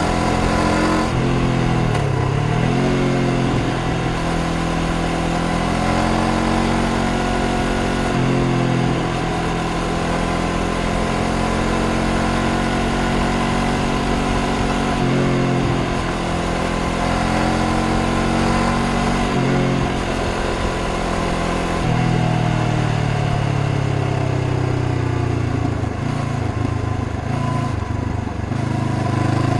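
Honda CBR500R's parallel-twin engine under way on the road. The pitch drops and climbs again several times, then rises slowly over the last several seconds.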